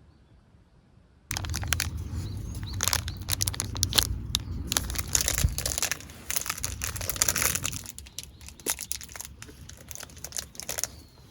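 Crinkling and crackling of something being handled, with many small sharp clicks, starting about a second in and thinning out near the end.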